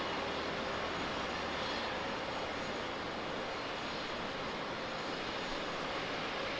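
Jet airliner engines running at high power as the aircraft departs, a steady, even roar with no change in level.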